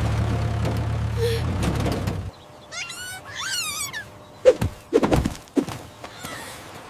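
A small tractor engine running steadily, cutting off about two seconds in. It is followed by a quick run of high, wavering chirps and then three or four dull thuds.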